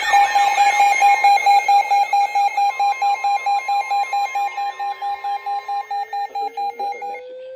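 Weather alert radio sounding its warning alarm: a loud electronic beep repeating about four to five times a second, with a fainter steady alert tone under it for a few seconds, before the beeping stops about seven seconds in. This is the signal for an incoming severe thunderstorm warning.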